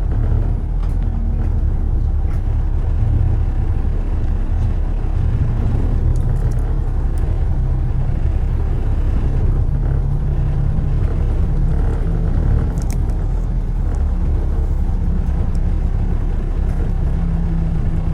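Steady low rumble of road traffic and moving cars, with a few faint ticks.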